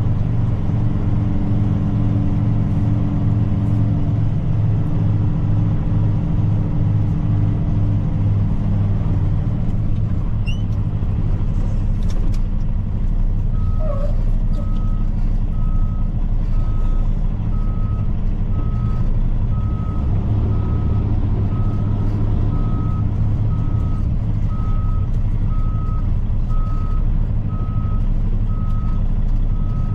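Truck's diesel engine running, its pitch dropping and settling about eight seconds in. About fourteen seconds in, a backup alarm starts beeping about once a second, the sign of the truck reversing.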